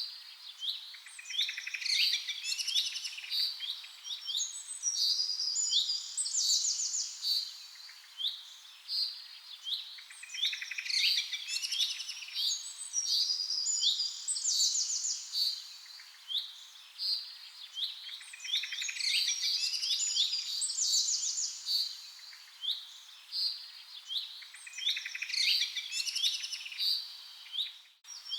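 Several birds chirping and trilling together, short calls and quick rattling trills overlapping in a busy chorus. The same run of calls comes round again about every nine seconds.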